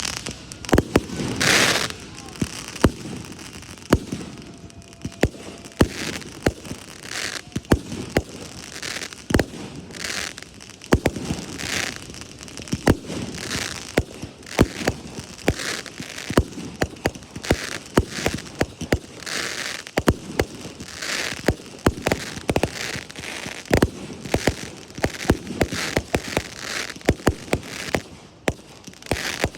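Aerial fireworks display: a continual series of sharp bangs from bursting shells, several a second at times, with short hisses between them.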